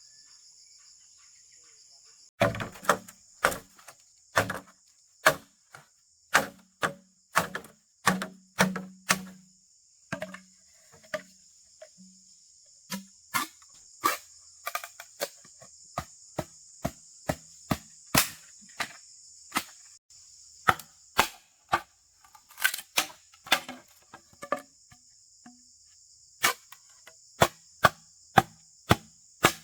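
Wood being chopped with a blade: sharp strikes about one or two a second, starting a couple of seconds in. A steady high chirring of insects runs underneath.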